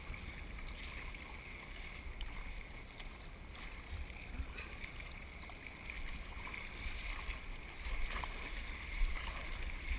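Steady wash of water and wind noise around a surf kayak, with a few small splashes and a low rumble.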